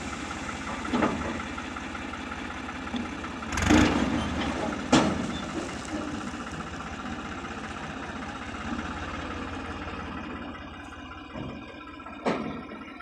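Heavy diesel machinery engine running steadily, with a few sharp metallic knocks; the loudest comes about four seconds in, and another follows a second later. The engine fades slowly near the end.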